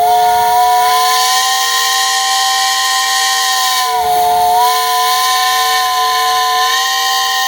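Steam traction engine's whistle blowing one long, loud blast, several tones sounding together over a hiss of steam. The pitch briefly sags about four seconds in, then recovers.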